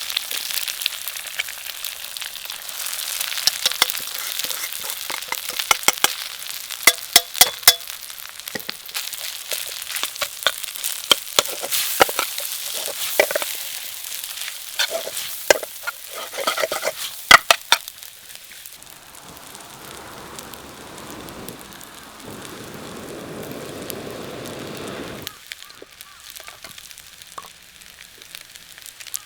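Food sizzling as it is stir-fried in a pan over a wood fire, with many sharp clacks of the utensil against the pan through the first half. After that the sizzle settles into a softer, steadier hiss, and it turns quieter near the end.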